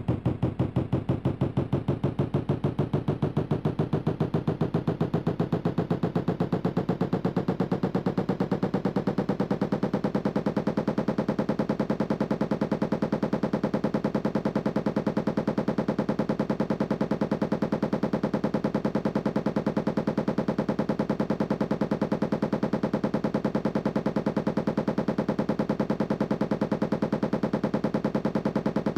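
Candy washing machine in its spin: the motor's whine rises in pitch for about the first ten seconds as the drum speeds up, then holds steady at speed, with a rapid, regular pulsing running under it throughout.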